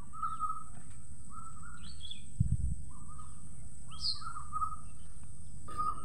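Birds making short, repeated calls over a steady background hiss, with a few higher upward-sweeping notes and a brief low thump about two and a half seconds in.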